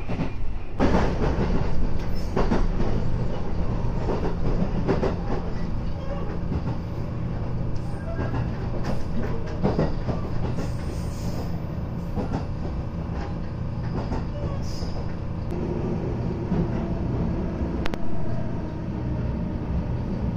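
JR West 221 series electric train heard from inside the car while running: a steady rumble of wheels on rail with sharp clicks over the rail joints, easing off near the end as the train draws into a station.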